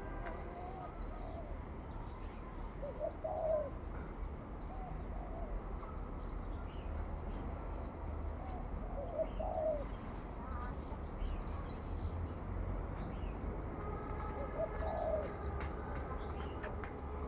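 Spotted dove cooing in the 'thổ thúc gù' call style: short, low, warbled coo phrases a few seconds apart, with faint chirps of small birds and a steady low hum behind them.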